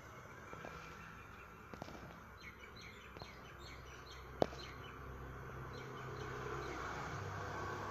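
Small birds chirping in short high calls, bunched in the first half, over a steady low outdoor background that grows slightly louder toward the end, with one sharp click about halfway through.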